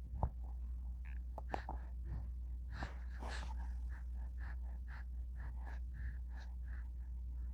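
A newborn baby making short breathy gasps and small vocal sounds, a few a second, over a steady low hum.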